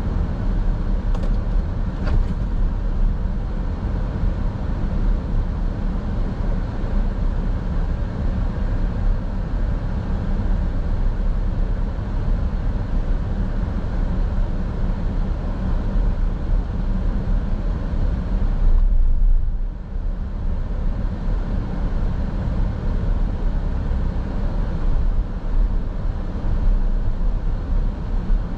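Steady low rumble of road and engine noise from a car driving, with the higher hiss briefly dropping away about two-thirds of the way through.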